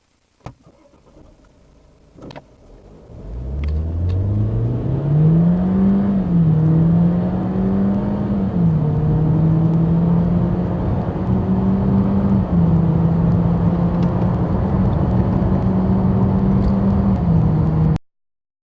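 BMW 1 Series hatchback accelerating hard from a standstill: after a few clicks the engine note climbs steeply, drops twice at upshifts, then holds a fairly steady pitch with small steps. It cuts off suddenly near the end.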